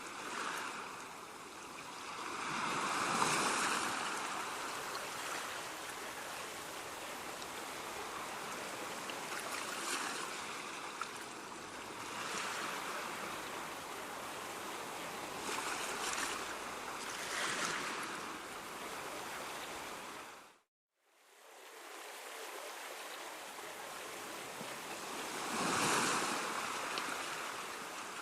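Ocean surf: a steady wash of waves on a shore, swelling louder each time a wave breaks, about six times. The sound cuts out briefly about two-thirds of the way through, then fades back in.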